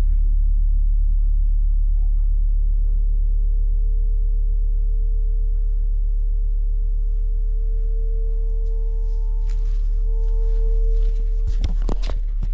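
Large temple gong ringing on after a strike: a deep, steady hum with a slowly pulsing higher tone above it. A few sharp knocks come near the end.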